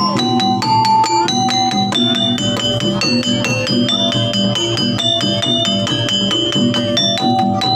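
Jaranan accompaniment music: a ringing melody of held notes stepping from pitch to pitch over fast, evenly spaced percussion strokes.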